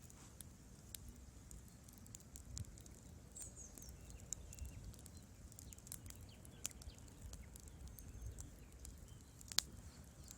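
Wood fire burning in a fireplace, crackling with scattered small pops over a low rumble of the flames, and one sharper pop near the end.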